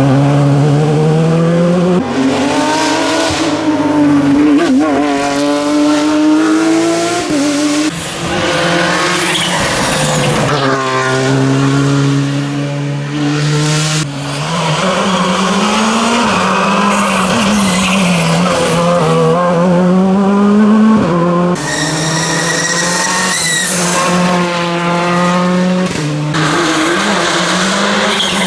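Rally cars at full stage speed, one after another, engines revving hard and climbing in pitch, then dropping sharply at each gear change.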